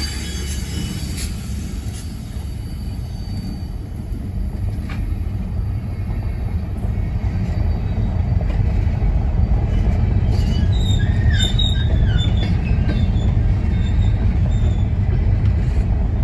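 Coal train of empty hopper cars rolling slowly around a curved loop track: a steady low rumble of wheels on rail that grows louder over the first several seconds, with faint wheel squeal from the curve about two-thirds of the way in.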